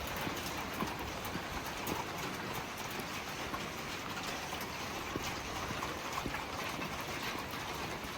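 Steady rain hiss with many scattered, irregular drips and ticks.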